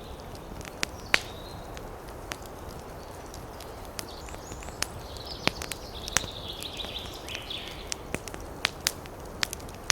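Wood fire crackling in a fireplace: irregular sharp pops and snaps over a steady low rush, with a stretch of hissing about halfway through.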